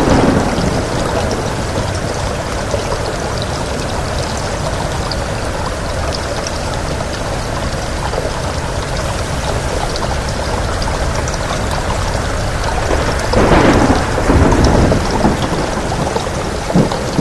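Steady heavy rain with wind. Louder rolls of thunder swell at the start and again about thirteen to fifteen seconds in, with a short sharper one near the end.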